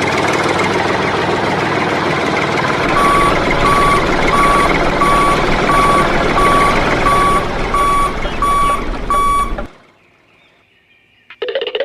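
Mini tractor engine running steadily. From about three seconds in, a reversing beeper sounds about one and a half times a second. Both stop suddenly, and another sound starts just before the end.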